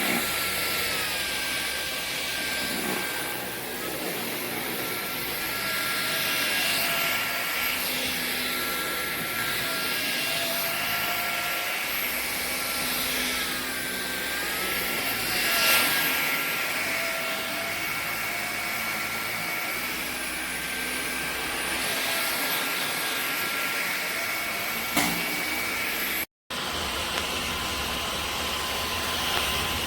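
Cordless vacuum cleaner running steadily, its motor whine dipping briefly in pitch and recovering a few times as it works. The sound breaks off for a moment near the end and comes back as a duller, lower rumble.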